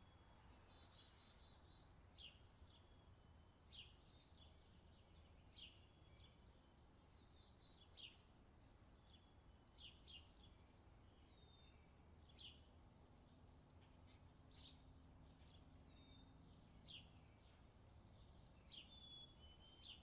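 Faint birdsong: short, high, downward-sweeping chirps repeated about every two seconds, with a brief trill near the start. Under it is a low, steady rumble of background noise.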